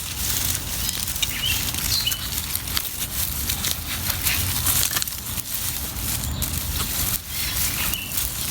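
Dry mulch and soil rustling and crackling in a continuous stream of small crunches as elephant garlic is dug out by hand.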